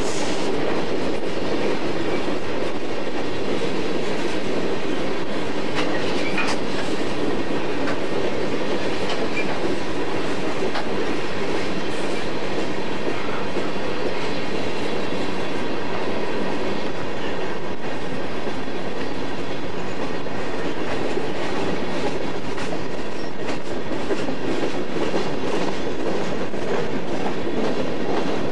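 Coal cars of a long BNSF coal train rolling past: a steady rumble of steel wheels on rail with faint clicks as the wheels pass over the rail joints.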